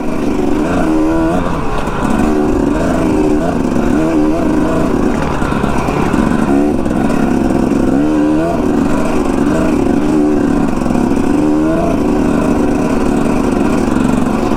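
Dirt bike engine running under way, its revs rising and falling repeatedly as the rider works the throttle, with wind rushing over the microphone.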